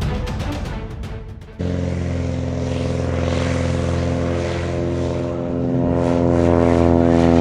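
Intro music fades, then cuts to a light single-engine piston airplane's engine and propeller running steadily, growing louder near the end.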